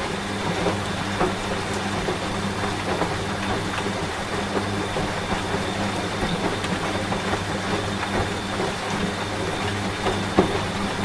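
Steady rain with many small drop ticks over the low, even hum of a washing machine running. One sharper tap comes near the end.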